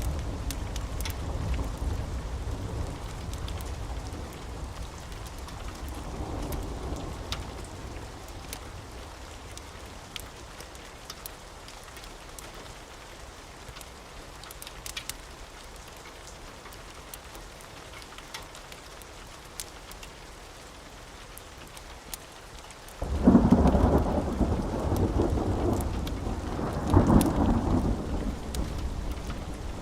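Steady rain with thunder: a low rumble dies away over the first several seconds, then a sudden loud thunderclap breaks about three-quarters of the way through and rolls on with a second crack a few seconds later.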